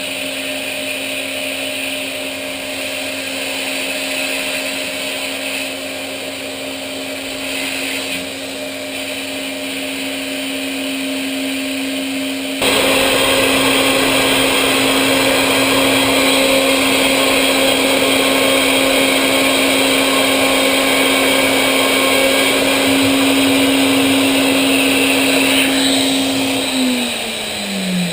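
CNC machine spindle running with a steady whine. About halfway in the noise abruptly gets louder and harsher. Near the end the spindle winds down, its pitch falling steeply.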